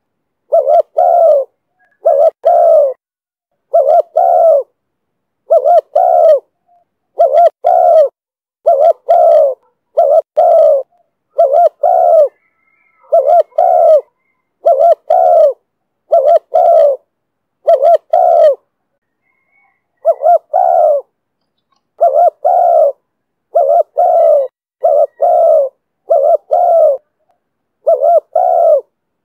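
Spotted dove cooing over and over in the coo style that Vietnamese keepers call "thổ thúc bổi". The notes come in close pairs about once a second, with a short break about two-thirds of the way through.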